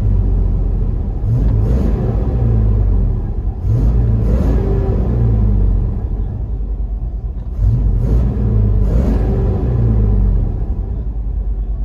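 Chevy 5.7-liter V8 on a true dual exhaust with an X-pipe and Borla Pro XS mufflers, revved in a series of short blips, roughly in pairs, and dropping back to a deep idle between them, heard from inside the truck's cab.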